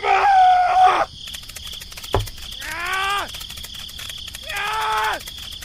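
Three drawn-out, animal-like calls, each under a second long and rising then falling in pitch, over a steady background of chirping crickets. A single sharp click comes a little past two seconds in.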